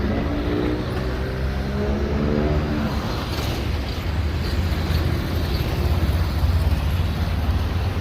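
Motor-vehicle engine whose pitch rises over about the first three seconds, over a steady low rumble of traffic.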